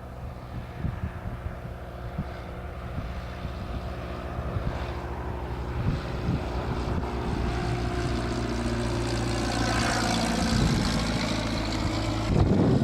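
Cessna 172P light aircraft, its four-cylinder piston engine and propeller droning steadily and growing louder as it approaches. About ten seconds in the pitch drops as it passes.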